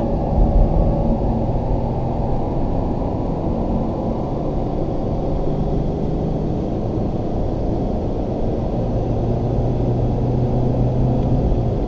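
Car engine pulling hard under full throttle in fourth gear, heard from inside the cabin as a steady drone with tyre and road noise.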